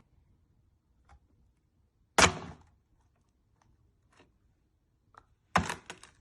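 Two loud thunks about three and a half seconds apart, the second followed by a few quick smaller knocks, with faint clicks between them.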